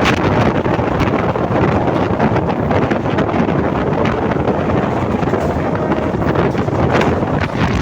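Heavy wind noise on the microphone over the steady rumble and clatter of a Mumbai suburban local train running at speed.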